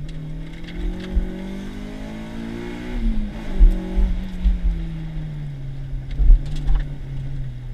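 Honda K24A2 2.4-litre inline-four in an autocross car, heard from inside the cabin: the revs climb under acceleration for about three seconds, drop away, then sink slowly as the car slows. Short low thumps come through several times.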